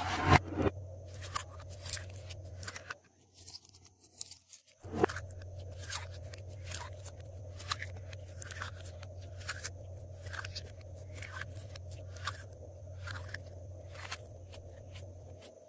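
Glossy slime being squished and mixed by hand, giving irregular sharp crackling clicks and pops. Under it runs a steady low hum that drops out for a couple of seconds about three seconds in.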